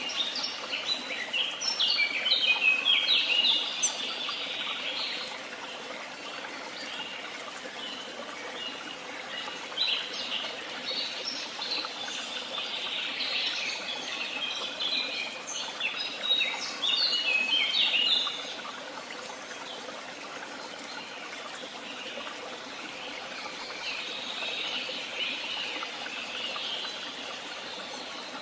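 Woodland songbirds singing in bursts of quick, high chirping notes, loudest in two stretches near the start and about halfway through, then softer near the end.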